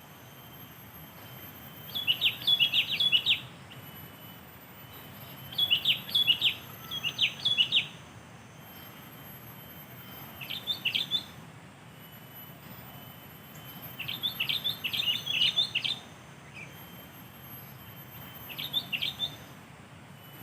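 Sooty-headed bulbul calling: about six short bursts of quick chirping notes, a few seconds apart.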